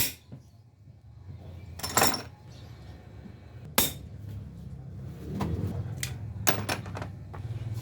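Metal tools and parts clinking and knocking during motorcycle front fork seal work: a few sharp strikes a couple of seconds apart among lighter clicks, over a low steady hum.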